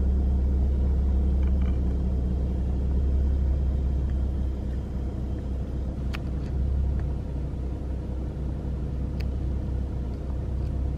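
Car engine idling steadily, a low even rumble, with a couple of faint clicks.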